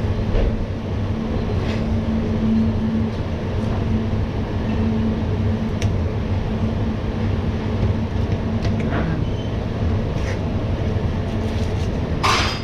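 Steady low mechanical hum of commercial-kitchen ventilation, with a few faint clicks as a knife works through a fish on a cutting board.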